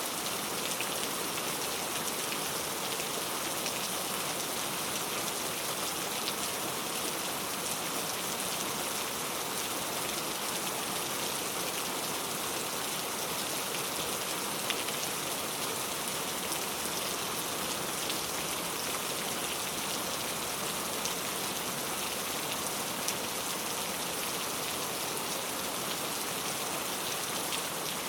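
Steady rain falling, a dense even hiss with a few separate drops ticking now and then.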